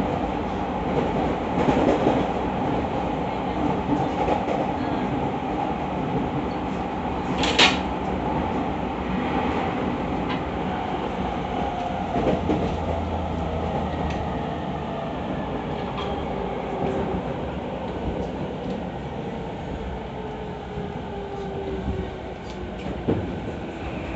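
Running noise of an E217 series electric commuter train heard from inside the car: steady wheel-on-rail rumble with a sharp knock about eight seconds in. In the second half the traction motor whine falls in pitch as the train slows into a station.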